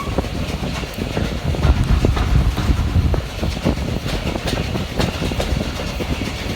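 Railway carriage running along the track: a steady low rumble with irregular clicks and knocks from the wheels passing over rail joints.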